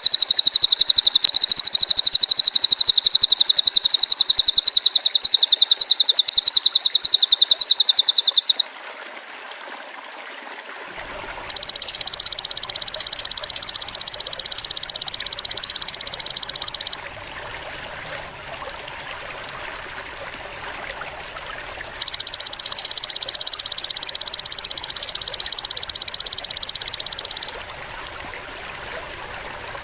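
Masteran recording of cililin and golden grasshopper (belalang emas) calls: a long, loud, high-pitched rapid buzzing trill stops about a third of the way in. Two shorter steady buzzes of about five seconds each follow, with quiet hissy pauses between them.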